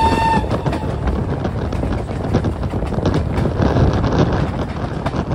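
Steam-hauled passenger train running, heard from a carriage window: the wheels clatter on the rails and wind buffets the microphone. The last moment of a locomotive whistle cuts off at the very start.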